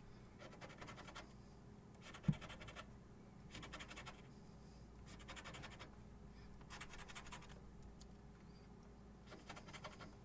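Faint scratching of a scratch-off lottery ticket's coating, in short strokes repeated about every second and a half, with one sharp tap a little over two seconds in.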